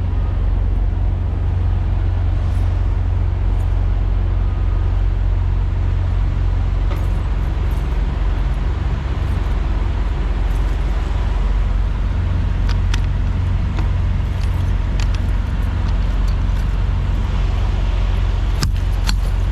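Semi truck running, heard from inside the cab: a steady low engine and road rumble. A few light clicks or rattles come in the second half.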